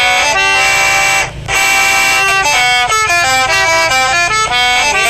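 Accordion playing a quick run of sustained reedy notes and chords, changing pitch several times a second, with a brief break about a second and a half in.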